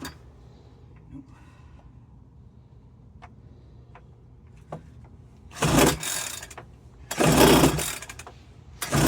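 A Homelite backpack leaf blower's 30cc two-stroke engine is cranked on its pull-start cord three times, each pull a loud rasp of about a second, after a few faint clicks. The engine fires only briefly and won't keep running, which the owner thinks could come from the fuel having the wrong oil-to-gas ratio.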